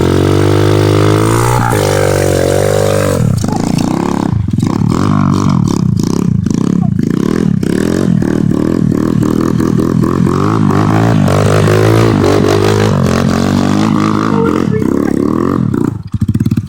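A 140cc pit bike's single-cylinder four-stroke engine running loud: a steady high note for about three seconds, then its pitch rising and falling again and again as it is revved. The sound drops away about a second before the end.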